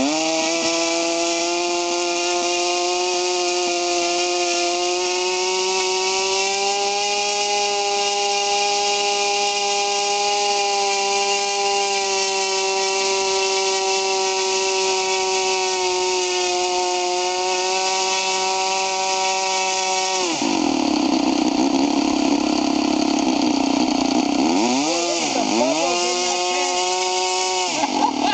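O.S. 49-PI Type II Wankel rotary model-aircraft engine on 15% nitro glow fuel, swinging a 10x6 propeller during its break-in run, running at high revs with a steady high-pitched tone. About twenty seconds in it drops to a lower, rougher speed, is blipped down and up twice, then revs back up near the end.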